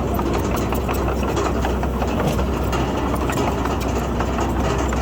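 Heavy diesel earthmoving machinery running steadily, with the engine's low drone and a fast irregular clatter of metal over it.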